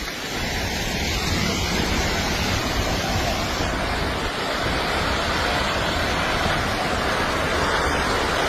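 Landslide: a steady, intense rushing roar of moving earth and rock that sounds like a raging river.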